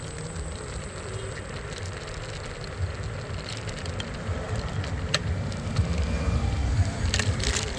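Street traffic heard from a moving scooter, with wind rumbling on the microphone and scattered sharp clicks; the rumble grows louder about six seconds in.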